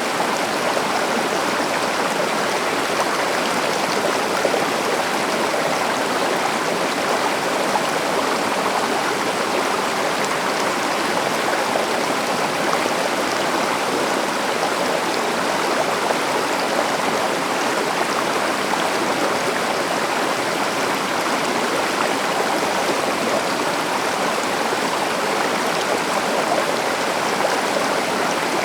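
A river or forest stream running steadily over rocks, a continuous rushing and burbling of water.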